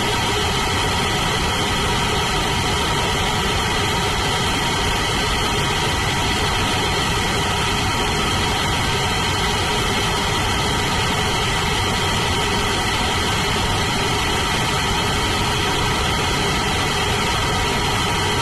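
Blue Origin BE-4 methane-and-liquid-oxygen rocket engine firing steadily in a static test: a continuous, unchanging rush of noise with a few steady tones running through it.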